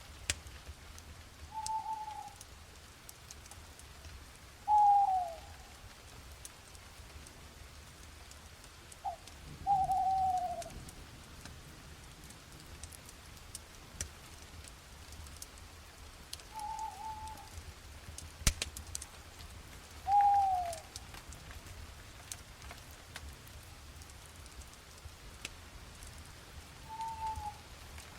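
A bird calling seven times at irregular intervals, each call a short single note that dips slightly in pitch. Beneath it run faint scattered crackles and a steady low hum.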